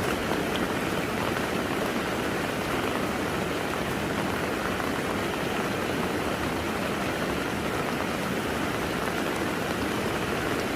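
Steady rain falling: a continuous, even hiss that keeps the same level throughout.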